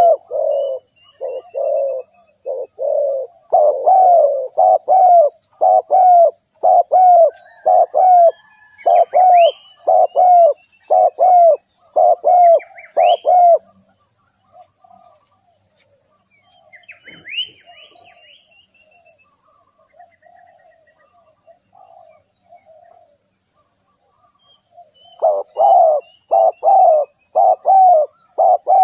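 Spotted dove cooing: a long run of short, repeated coos, which stops about halfway through and starts again near the end. Faint chirps of small birds sound in the gap.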